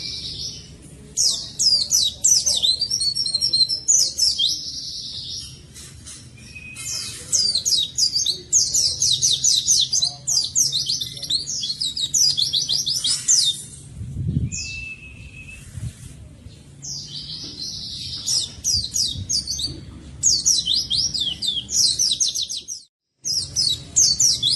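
Pleci (white-eye) singing a fast, continuous song of high, rapid sweeping chirps in long runs with short pauses, the busy 'gacor' song used to lure and tutor captive white-eyes. The sound cuts out briefly near the end.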